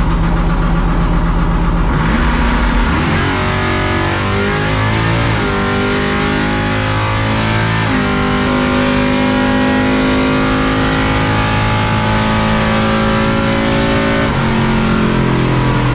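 C10 drag truck's engine under hard acceleration on a drag-strip pass: the pitch climbs and steps at gear changes, then holds high and steady until a change near the end.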